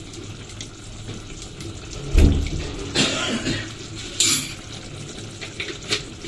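Kitchen cooking sounds over a steady low hum: a heavy knock about two seconds in, then short hissing, scraping bursts and a few light clicks.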